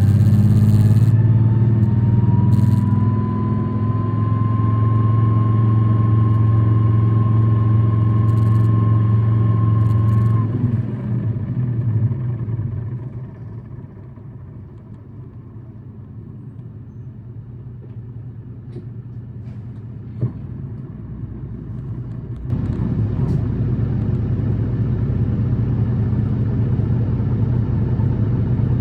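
City bus diesel engine and drivetrain heard from on board, running hard with a whine that rises and then holds, the unusual noise this bus is known for. The engine eases off to a quieter idle about ten seconds in, with a short hiss and a single click, and comes back up loudly a few seconds before the end as the bus pulls away again.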